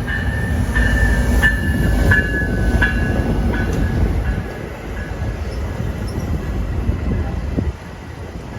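Railroad cars rolling past, with a high, steady wheel squeal and a regular clicking of wheels over rail joints above a low rumble. The rumble drops off sharply near the end.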